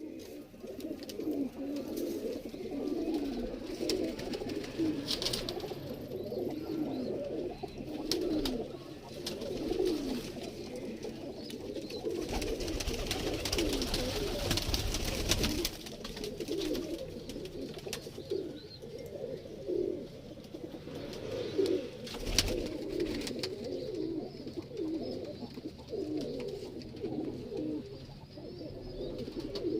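A flock of domestic pigeons cooing, many low coos overlapping continuously. A louder rush of noise comes in about twelve seconds in and lasts a few seconds, and a shorter one follows near twenty-two seconds.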